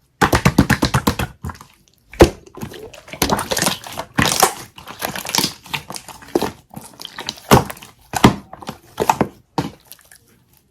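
Jelly slime being squeezed and pressed by hand, with a quick run of clicks in the first second and a half, then bursts of squishing and crackling pops separated by short pauses.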